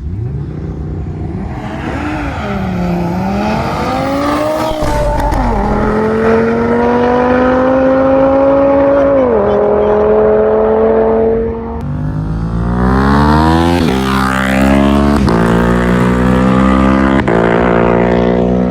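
Audi TT RS five-cylinder turbo engine revving, then pulling hard through the gears. The pitch wavers at first, then climbs and drops sharply at each gear change, with several quick shifts in the second half.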